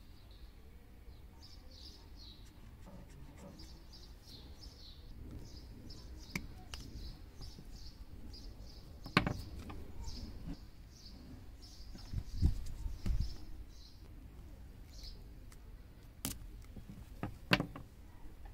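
A small bird chirps over and over in the background, short high chirps throughout. A few sharp clicks and low thumps come from the coaxial cable being handled.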